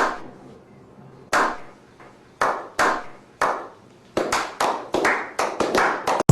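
A series of sharp claps with short ringing tails, about a second apart at first, then coming faster and closer together over the last two seconds.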